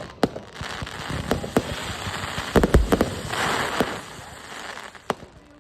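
Fireworks going off: a scatter of sharp bangs and crackles, with a quick cluster of several bangs about two and a half seconds in, a brief hiss just after, and a single bang near the end.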